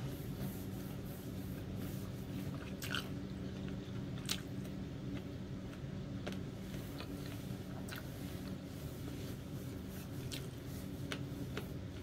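A person chewing a mouthful of Indomie instant noodles, with scattered soft mouth clicks about every second or two over a steady low hum.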